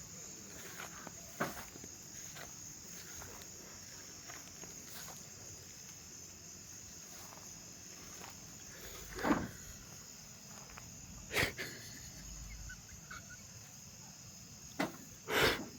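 Night insects, crickets, trilling steadily in a high, even band, with a few short snaps and rustles, the loudest two near the end.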